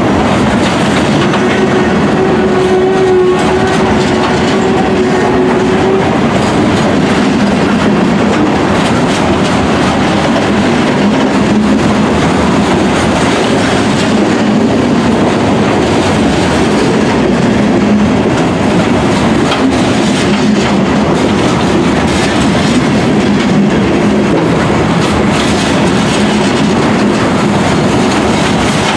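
Loaded freight cars of a long, heavy freight train rolling past: a steady loud rumble with the clickety-clack of wheels over the rail joints. A held tone sounds over it at the start and stops about six seconds in.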